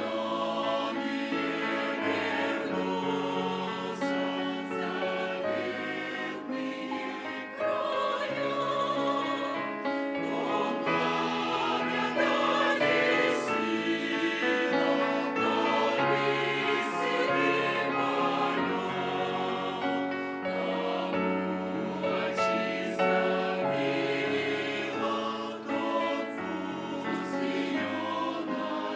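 A choir singing a sacred song, several voice parts holding and moving between sustained chords.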